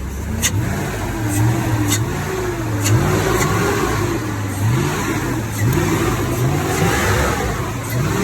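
Chevrolet Silverado pickup's engine running and being revved in short repeated blips, its pitch rising and dropping back every second or so. A few sharp clicks sound in the first three seconds.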